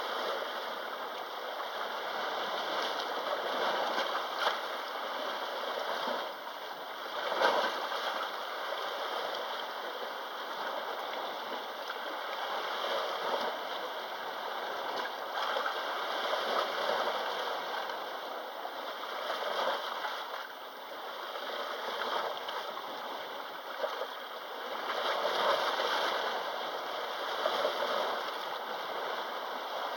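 Sea water washing and lapping at the shore: a steady rush with brief louder splashing surges every few seconds.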